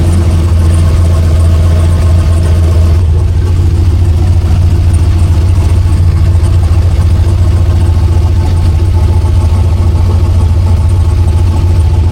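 Chevrolet Silverado engine with a newly installed big turbo idling steadily.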